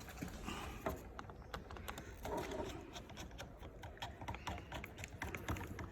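Small irregular clicks and ticks of a screwdriver driving in the screws of a motorcycle handlebar switch-housing cover.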